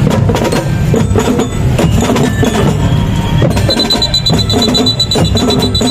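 An elementary-school marching drum band playing, with many rapid drum strokes from snare and bass drums. A high steady tone sounds over the drums in the last two seconds.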